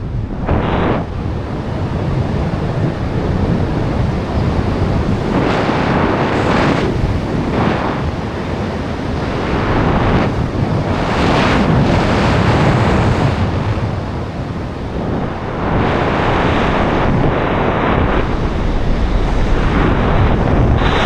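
Loud wind rushing over the microphone, a steady roar of airflow that swells and eases every couple of seconds.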